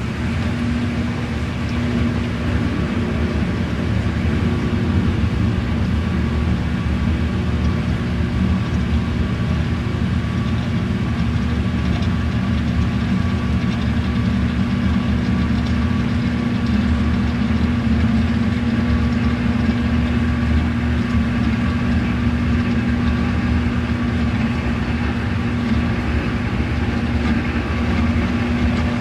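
Old-school washing machine running with a steady motor hum.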